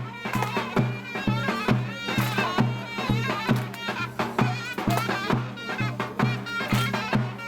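Traditional Turkish folk dance music: a loud reed wind instrument plays a wavering melody over a steady drum beat.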